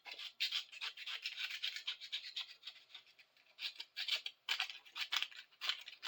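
Quick back-and-forth scraping strokes on a small metal tool part, taking off a layer of dirt and old paint, with a short pause partway through.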